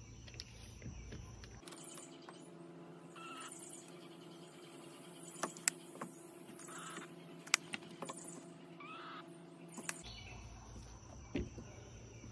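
Faint outdoor ambience: a bird calls three times, a couple of seconds apart, over a low steady hum, with a few sharp clicks near the middle.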